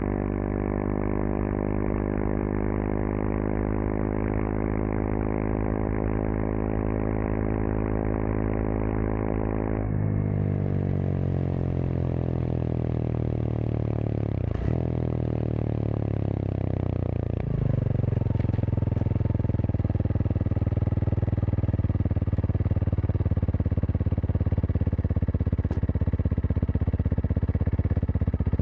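Kawasaki KLX230SM's single-cylinder engine running through a K-Factory FRC slip-on silencer while ridden, its pitch climbing slowly and dropping at two upshifts, about ten and seventeen seconds in, then holding fairly steady.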